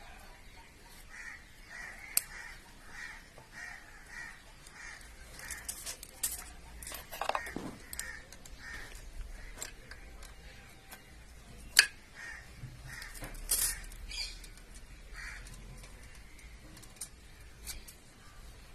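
Crows cawing in a repeated series of short calls, with a few sharp metallic clicks from hand tools on the engine, the loudest about twelve seconds in.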